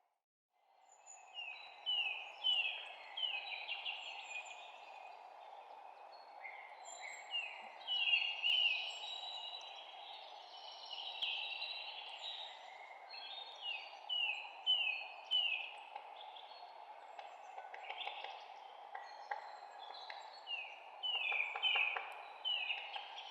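Several songbirds chirping: many short falling chirps in quick series, over a steady low rushing background. The sound cuts out briefly at the very start, then resumes.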